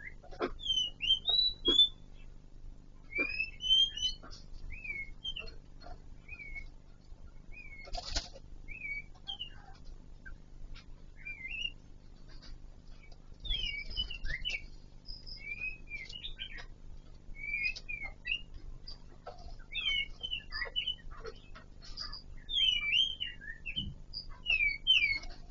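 Birds in an aviary giving short chirping calls, one after another, through the whole stretch, with a few soft knocks, the plainest about eight seconds in.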